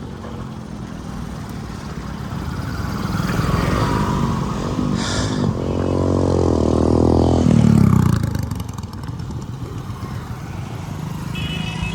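Road vehicle engine noise: a motor vehicle's engine grows louder and higher in pitch, loudest about eight seconds in, then falls away.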